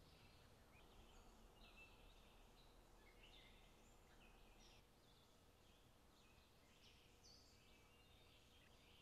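Faint birds chirping in the open countryside: many short calls throughout, over a low, steady background hiss.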